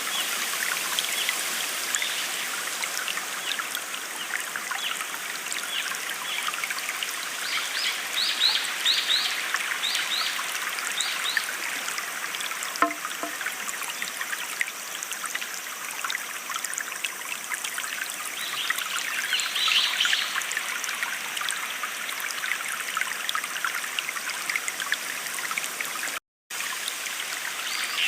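A small stream trickling and flowing steadily, with a bird giving a quick series of short chirps about a third of the way in and again about two-thirds in. The sound cuts out completely for a split second near the end.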